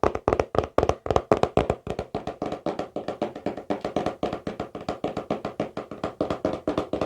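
Fast fingertip tapping on a hollow, resonant object, an even run of about six or seven taps a second, each with a short ringing tone.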